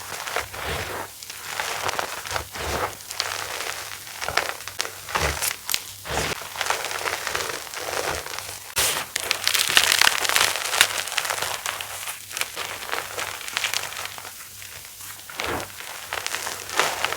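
Pasted (reformed) gym chalk being crushed, with a run of crisp crunches and crackles as the dried blocks break and crumble, busiest about nine to eleven seconds in.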